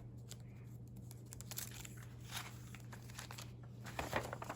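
Paper rustling and crinkling as old newsprint recipe clippings and binder pages are handled: scattered soft crackles, with a denser flurry about four seconds in, over a low steady hum.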